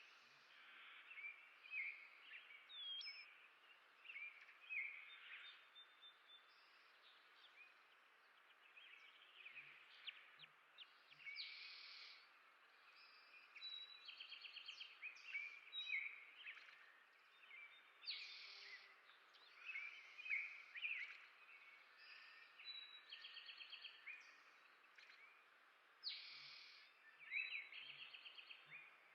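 Small songbirds chirping and calling throughout, with several short rapid trills, faint over a steady background hiss.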